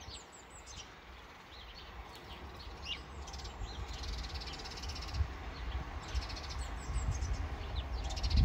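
Small birds chirping, with short falling calls and a couple of rapid trills, over a steady low rumble that slowly grows louder.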